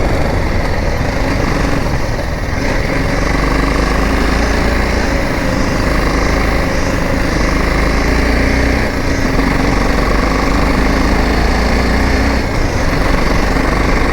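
Motorcycle engine running under way, heard from the rider's camera, with the engine note shifting a few times through the ride.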